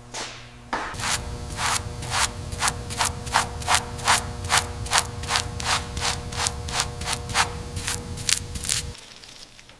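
Rhythmic back-and-forth rubbing strokes, about three a second, over a steady low hum. The strokes begin just after the start and stop together with the hum about a second before the end.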